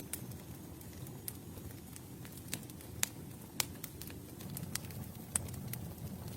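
Campfire burning with a low steady rumble and irregular sharp crackles and pops, a few louder snaps in the middle.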